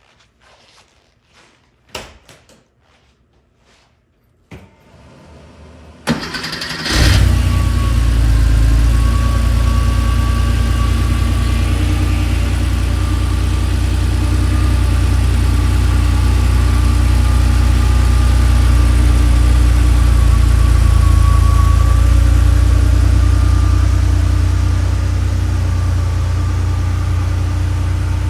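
A few clicks, then a 1988 Porsche 911 Targa's air-cooled flat-six is cranked over by the starter about six seconds in and catches a second later on a cold start. It settles into a steady, high cold idle that eases slightly near the end.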